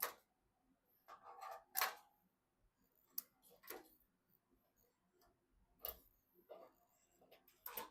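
Scattered light clicks and taps of computer hardware being handled and fitted during a PC assembly, about eight of them at irregular intervals with near silence between.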